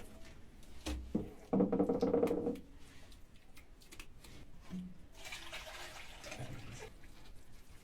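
Wet plaster being worked by hand onto brick fragments: scattered taps and knocks, with a louder rough scraping patch about a second and a half in and a fainter one near the end.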